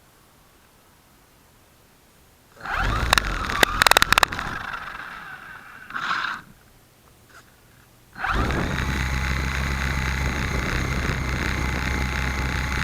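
Small RC helicopter's electric motor and rotor, heard through the keychain camera mounted on it. A few seconds in comes a loud burst with sharp clicks that dies away, then a second brief burst, and about eight seconds in the motor spins up again and runs steadily at an even pitch.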